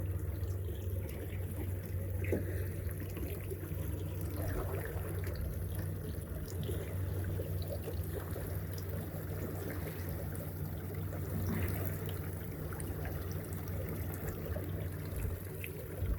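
Boat's outboard motor running slowly at trolling speed, a steady low hum, with water trickling and splashing around the boat.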